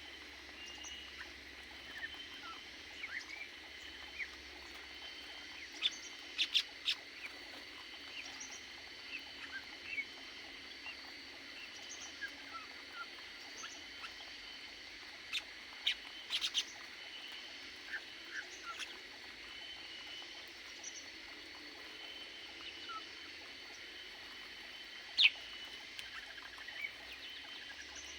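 Aviary birds chirping with many short calls, and a few sharper, louder calls now and then.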